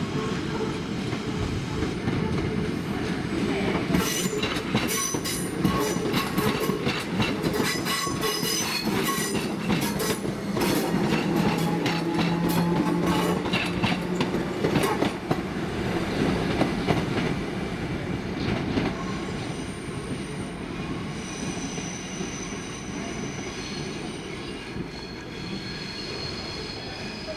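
A train moving along the track: the wheels click over rail joints in quick runs, getting louder to a peak about twelve seconds in and then slowly fading, with a thin high-pitched wheel squeal in the second half.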